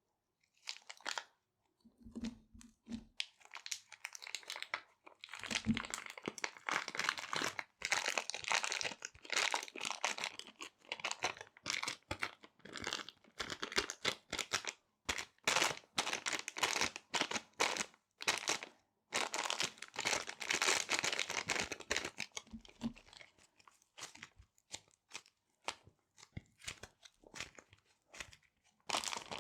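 Small resealable plastic bags crinkling and rustling close to the microphone as they are handled, in irregular bursts of crackle with brief pauses.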